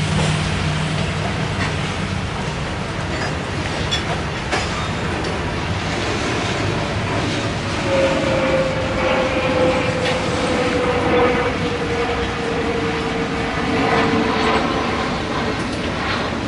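Freight train of covered hopper cars rolling past, the wheels clicking over rail joints. About halfway through, a wheel squeal starts and holds for several seconds, slowly falling in pitch.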